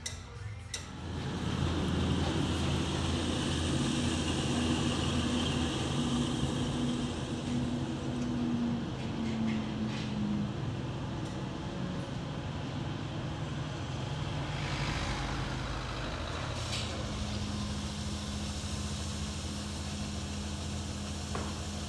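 A motor vehicle engine running steadily, its pitch rising briefly and then settling to a new steady note.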